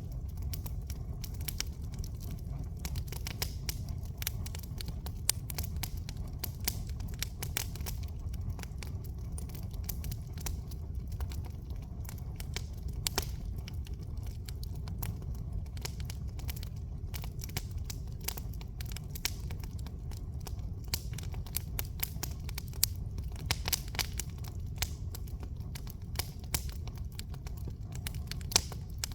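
Campfire burning, its wood crackling and popping irregularly over a steady low rumble.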